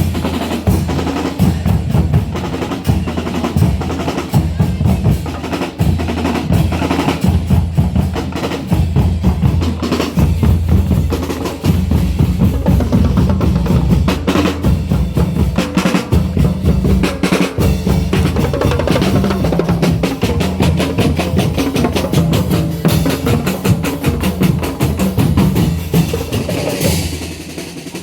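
Parade marching-band drumline playing: bass drums and snare drums beating a dense rhythm with rolls.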